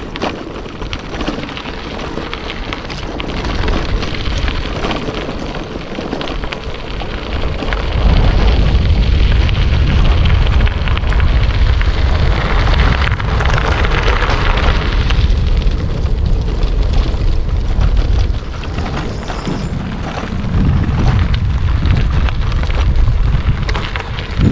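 Campfire crackling and popping, with a heavy low rumble swelling in about a third of the way through and again near the end.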